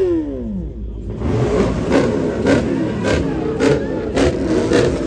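A car engine being revved at a car meet: a rev falls away in the first second, then the engine runs rough and uneven with sharp cracks about every half second.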